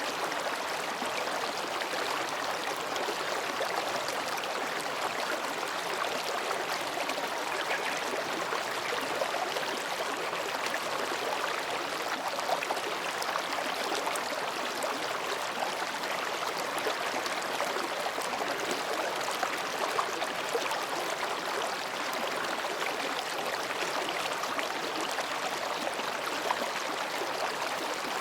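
Mountain stream babbling steadily over and between rocks.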